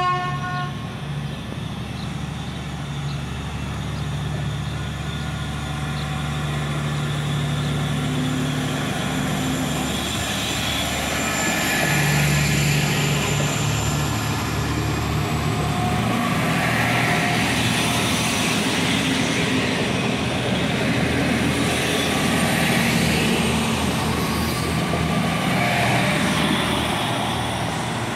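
Diesel regional train pulling away from a station. Its engine gives a steady low hum that drops out and changes pitch about ten to twelve seconds in, while the rolling noise of the wheels on the rails builds as the train passes and gathers speed.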